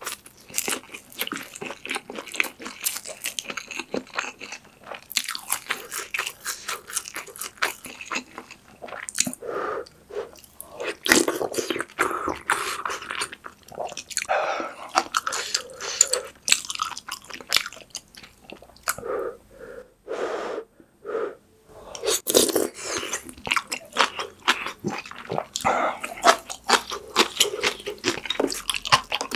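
Close-miked chewing and wet mouth sounds of someone eating pork kimchi stew with ramen noodles, with dense short clicks and crunches. There is a brief pause about twenty seconds in.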